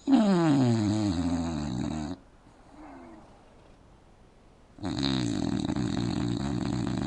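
English bulldog snoring in its sleep with its mouth open: a long, loud snore falling in pitch, a much fainter one about three seconds in, and another long, loud snore starting about five seconds in.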